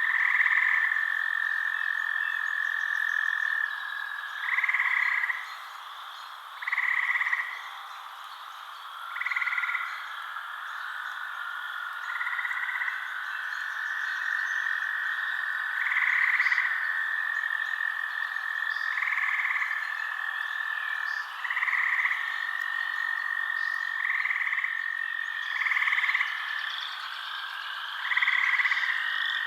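Frogs calling in a night chorus: loud croaks about a second long, repeated every two to three seconds, over a steady high trill.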